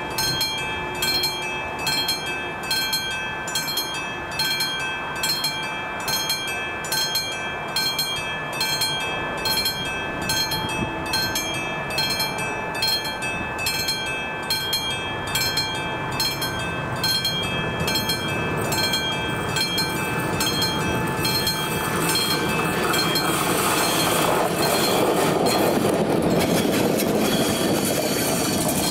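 Level crossing warning bell striking steadily, about one and a half strikes a second. From about two-thirds of the way in, a ČD Cargo class 123 electric locomotive approaches and runs past with growing wheel-on-rail noise that drowns out the bell.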